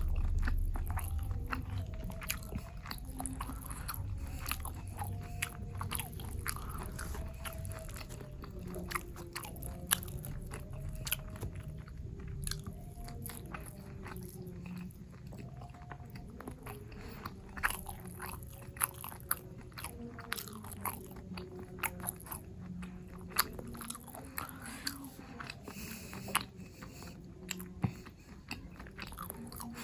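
Close-miked eating sounds: chewing and biting food, with many short, sharp mouth clicks and smacks.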